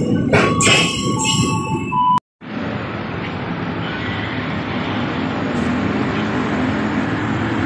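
A station's melodic chime rings over rumbling noise for about two seconds, then the sound drops out for a moment. After that comes the steady rumble of a train running on the rails.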